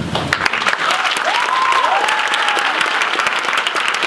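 Audience clapping, with a few whooping cheers rising and falling over the applause around the middle.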